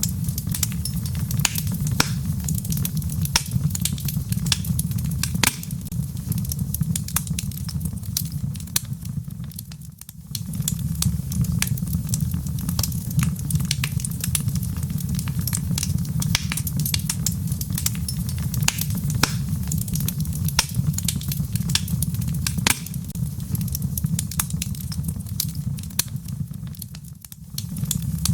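Wood fire crackling in a fireplace: a dense run of sharp pops and snaps over a steady low rumble, with rain pattering. The sound briefly fades and returns twice.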